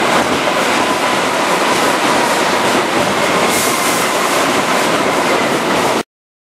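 A Keihan 2400 series electric commuter train running past at close range: a loud, steady running noise of wheels and running gear with a faint steady whine over it. The sound cuts off abruptly near the end.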